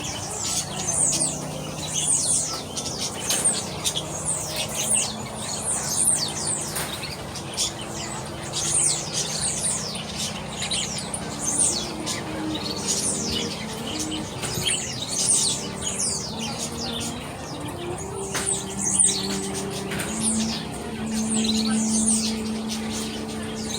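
Many small birds chirping at once: a dense, overlapping stream of quick, high, falling chirps. Under them run low held notes that change pitch now and then, steadiest and loudest in the last few seconds.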